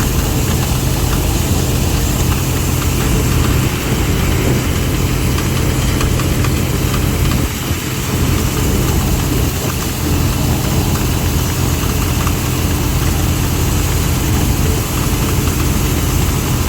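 Diesel engine of a combine harvester running steadily at close range, with its threshing and cutting machinery adding a wide steady rattle and hiss, as it harvests wheat.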